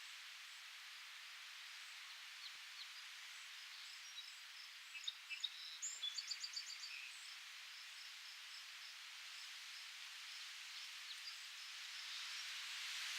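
Steady wind hiss through leaves with small birds chirping here and there, a quick run of chirps about five to seven seconds in; the wind swells near the end.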